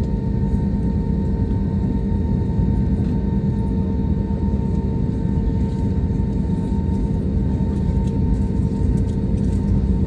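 Steady engine and air-system drone inside an airliner cabin: a deep rumble with a few constant humming tones running through it.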